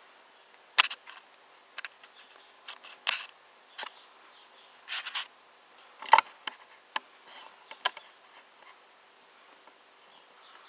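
Scattered light clicks and rubs from hands handling a 1:18 scale diecast model car, at irregular intervals with the sharpest click about six seconds in, over a faint steady hum.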